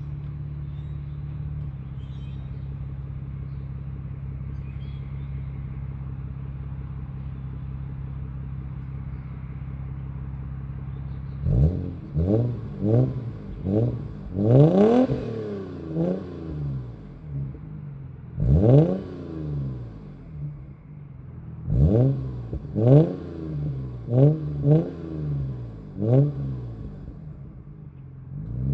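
2003 Toyota Avalon's V6 engine through a homemade straight-pipe exhaust with no muffler. It idles steadily for about eleven seconds, then gives a string of about a dozen quick throttle blips, each rev rising and dropping back, before settling to idle again.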